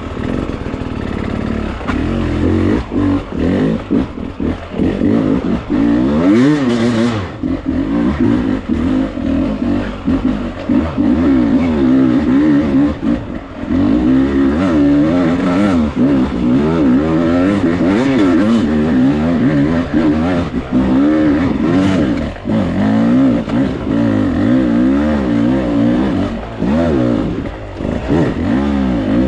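Beta dirt bike engine revving up and down constantly as it picks its way over loose rocks, with knocks and clatter from the bike and the rocks underneath.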